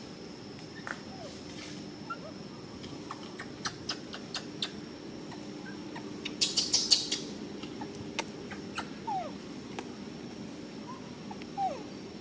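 A few short squeaks falling in pitch and scattered sharp clicks, with a burst of rapid rattling clicks about six and a half seconds in, over a steady low hum.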